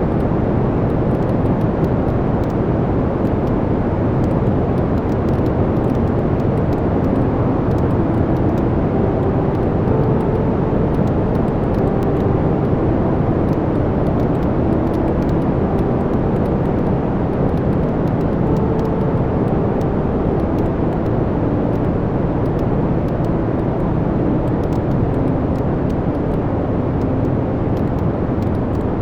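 Wood fire burning in a fireplace: a steady, even roar of flames with light crackles and pops scattered throughout.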